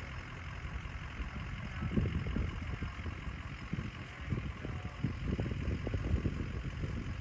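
Ford F-250 Powerstroke diesel engine running low and steady as the truck crawls along an off-road trail, with irregular low thumps from about two seconds in.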